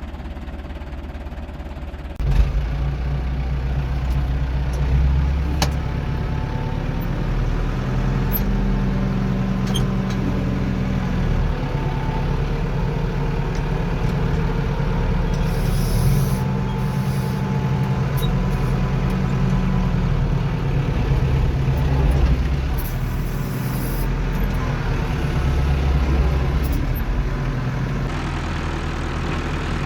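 International Harvester 784 tractor engine running, picking up revs abruptly about two seconds in and then working at a higher, varying speed. Brief hisses come in now and then above it.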